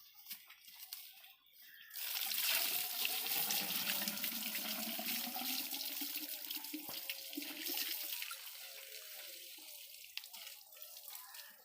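A rush of water begins abruptly about two seconds in. It stays strong for several seconds, then gradually dies away.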